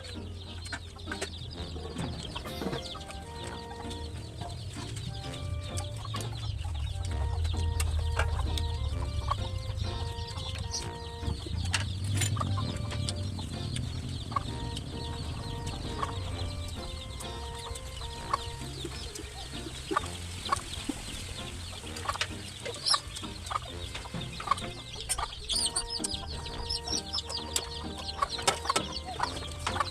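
Close-up eating sounds from a meal of buttered garlic mussels: chewing and slurping, with many sharp clicks of mussel shells and utensils.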